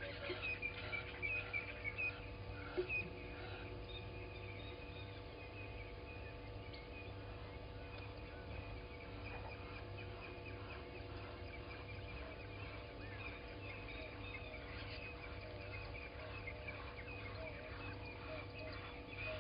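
Wild birds calling, a quick run of short chirps that thins out after the first few seconds, over a steady low background hum.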